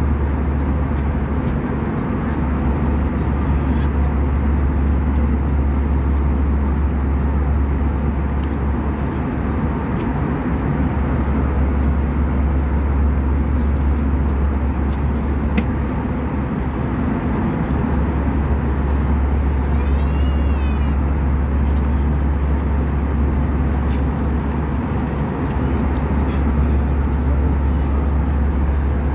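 Steady cabin noise of an Airbus A320-232 in flight: a constant low drone under a wide rush of air, even throughout. A brief high gliding sound cuts in about 20 seconds in.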